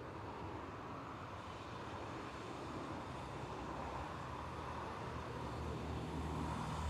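JR Freight Class EF210 electric locomotive hauling a container freight train, approaching and growing steadily louder. A low steady hum grows in near the end as the locomotive draws close.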